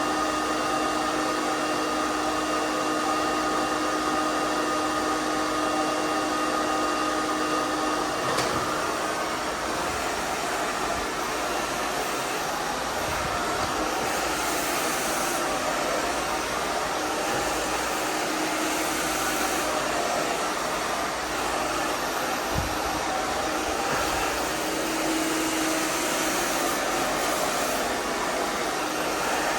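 Hairdryer running continuously: a steady rush of air over a motor whine. About eight seconds in the whine's tones fade out and the airflow carries on, shifting a little in tone now and then.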